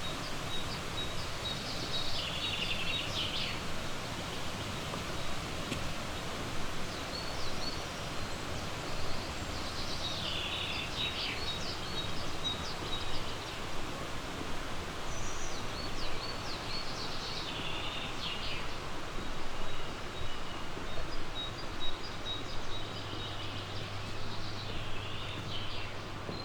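Songbirds singing: a short phrase repeats roughly every seven seconds, with a thin high note repeated in between, over a steady rushing background. A low hum joins near the end.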